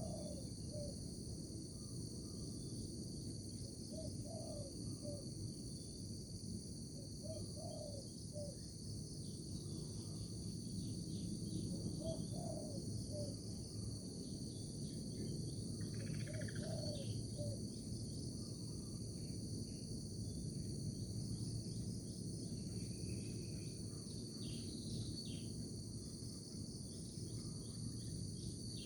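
Natural outdoor ambience: a steady high-pitched insect chorus, scattered bird chirps, and a low short call of a few notes repeating about every four seconds, over a low, even rushing noise.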